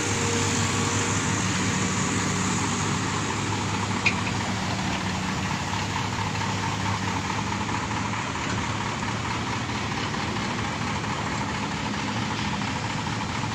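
Heavy diesel engine of the recovery equipment running steadily at a constant speed, with one short sharp click about four seconds in.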